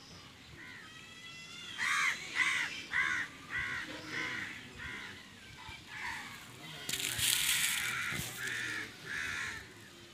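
A bird calling over and over, a run of short calls at about two a second that starts about two seconds in. A brief rush of hiss comes around seven seconds in, then two more calls.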